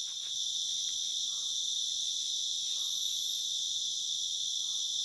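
Steady, high-pitched chorus of night insects, crickets and the like, chirring without a break.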